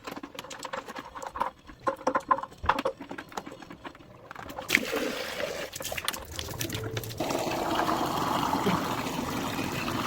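A few light clicks and knocks, then water starts running steadily about seven seconds in.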